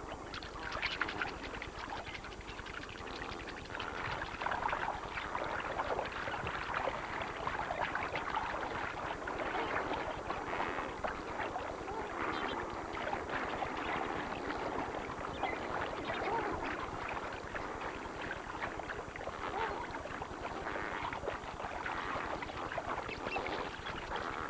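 A large flock of flamingos bathing in shallow water: a dense, continuous chatter of many overlapping calls mixed with splashing.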